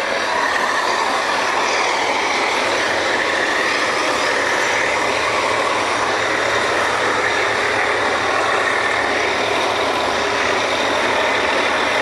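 A drilling rig's machinery running with a steady, even drone that does not change.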